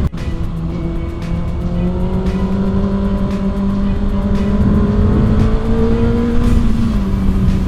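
Kawasaki ZX-6R's inline-four engine pulling steadily while riding, over low wind rumble. The note cuts out sharply for a moment at the start, then climbs slowly in pitch and eases down a little near the end.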